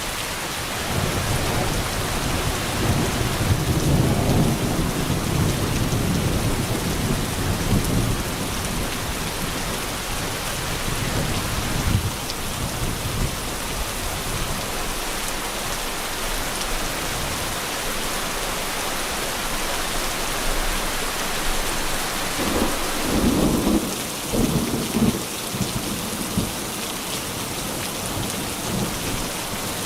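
Steady heavy rain with a long low thunder rumble over the first several seconds, then a second, shorter rumble with a few sharper cracks a little past the two-thirds mark.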